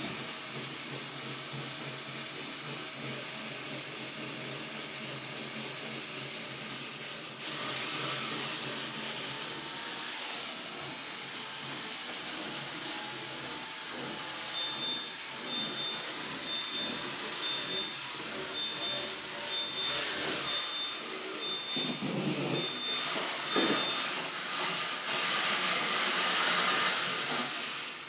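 Steady hissing noise that gets louder about seven seconds in and again near the end.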